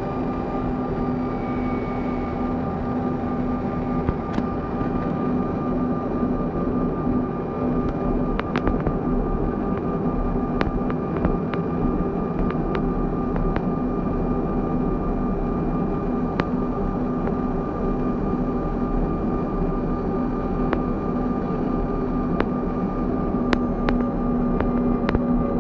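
Airliner engines and airflow heard inside the passenger cabin during the landing: a steady hum with constant tones. Scattered sharp clicks and rattles occur throughout, with slightly louder ones near the end.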